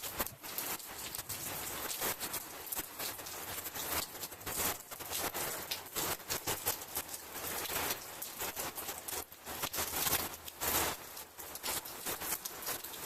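Rain pattering steadily, with many irregular sharp crackles of drops striking close by.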